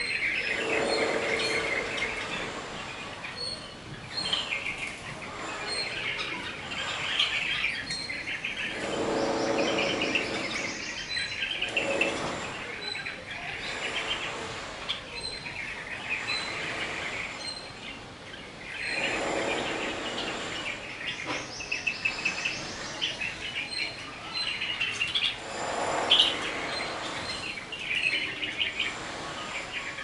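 Several birds calling: bursts of chattering calls every few seconds, over a short high chirp repeated again and again.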